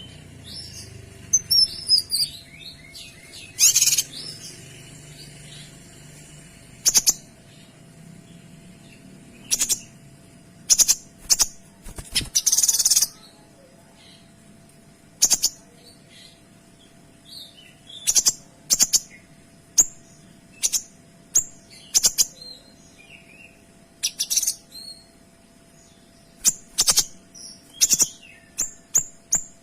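Kinoy songbird singing. It opens with a quick run of falling whistled notes, then gives sharp, loud single 'shot' notes at irregular gaps, which come closer together near the end.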